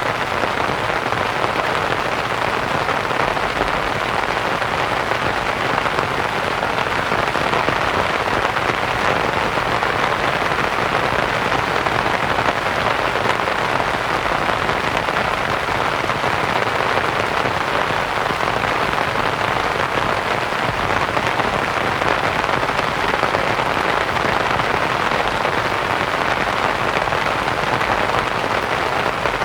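Steady rain on a canvas tent mixed with white noise, a dense, even patter with no breaks.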